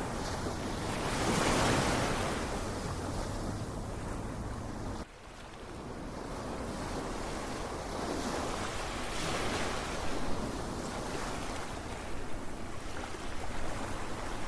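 Ocean waves surging and washing in, a swell every few seconds. About five seconds in the sound drops off sharply for a moment and then builds back up.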